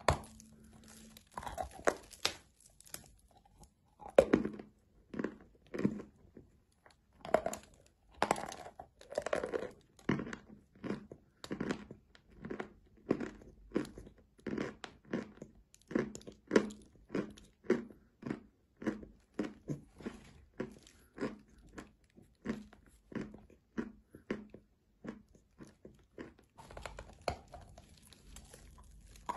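A person biting into a large lump of white chalk and chewing it with crisp crunches, settling into a steady rhythm of about two crunches a second, with another bite into the lump near the end.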